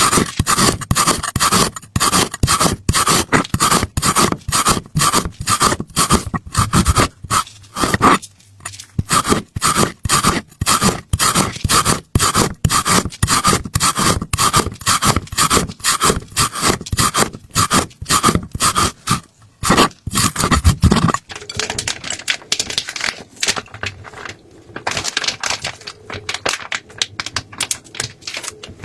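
Rapid rhythmic scraping strokes, about three a second, with a faint ringing tone. About 21 seconds in they change to softer, irregular scraping.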